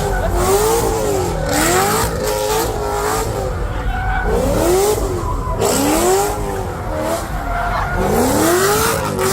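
Car engine revving up and down over and over while its tyres spin and squeal, as when a car is doing donuts or a burnout.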